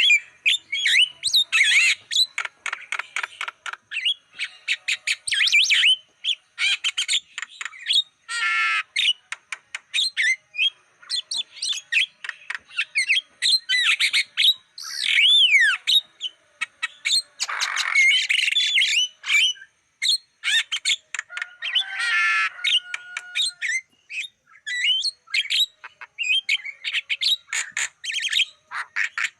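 Javan myna (jalak kebo) singing a long, varied run of rapid clicking chatter, harsh squawks and whistled glides, with a few longer buzzy calls along the way.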